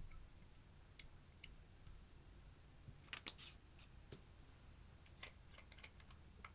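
Faint, scattered small clicks and crackles over near silence, with a quick cluster about three seconds in and a few more near the end.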